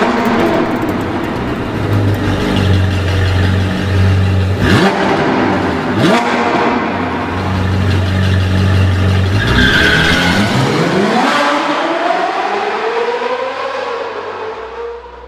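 Sports-car engine sound effect: a steady low engine note, two sharp hits about a second and a half apart, then a rising rev that fades away near the end.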